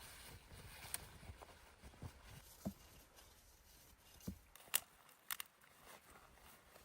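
A few faint, scattered clicks and dull knocks at irregular intervals, the sharpest cluster coming after about four and a half seconds, over a low steady hiss.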